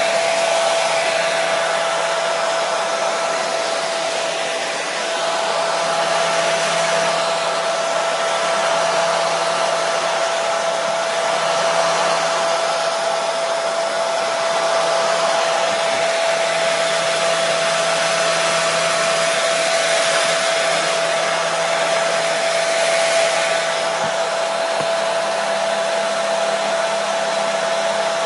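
Hair dryer running steadily: a constant rushing blow of air with a steady motor whine.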